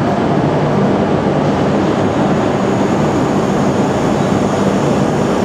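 Tohoku Shinkansen train moving along the platform: a loud, steady rush of running noise over a low hum.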